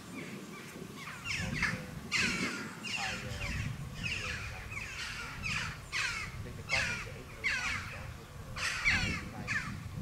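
Birds calling over and over: short, harsh, falling calls, one or two a second, over a low background rumble.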